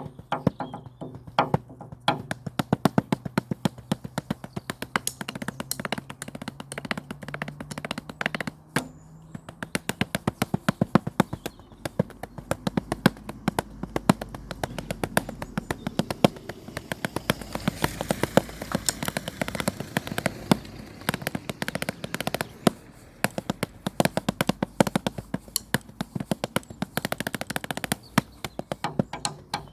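Acoustic drum kit played with drumsticks in a fast, busy improvisation, many quick strokes a second with a short break about a third of the way in.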